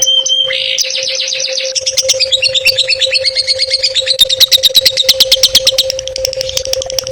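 A songbird singing a fast, varied song of quick trills and sweeping notes that builds into a run of sharp repeated notes, about eight a second, through the middle. A steady low hum runs beneath.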